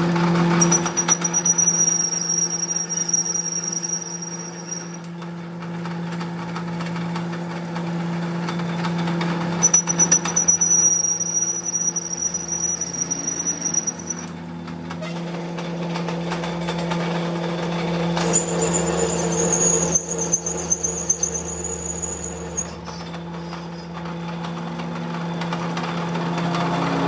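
Workshop machine running with a steady low hum, and a high-pitched whine that sets in and stops three times, with crackling between.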